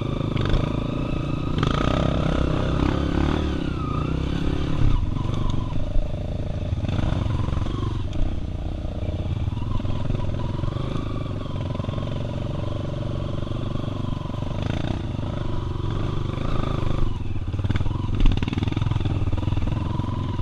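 Off-road motorcycle engine running steadily, with a few sharp knocks and rattles.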